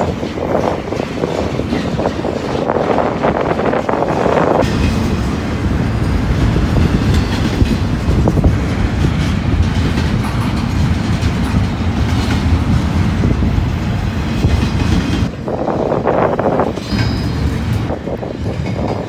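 A long freight train rolling past, its wheels clacking over the rail joints in a steady low rumble. Gusts of wind buffet the microphone over it near the start and again near the end.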